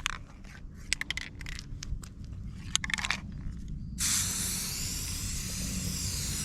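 A few sharp clicks and rattles, then an aerosol spray paint can spraying in a steady hiss from about four seconds in, stopping near the end.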